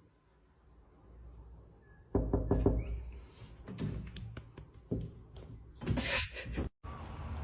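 A series of knocks and thumps: a quick cluster about two seconds in, then single knocks spaced about a second apart.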